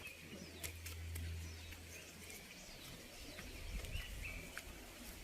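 Quiet forest ambience with a few faint, brief bird chirps.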